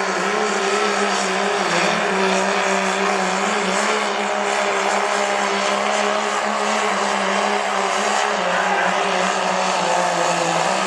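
Diesel pulling truck's engine running hard at high revs under load on a sled pull: a loud, steady drone that holds one pitch with a slight sag late on.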